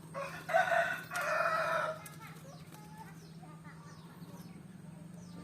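A rooster crowing once, a loud call lasting about two seconds, with faint small-bird chirps continuing around it.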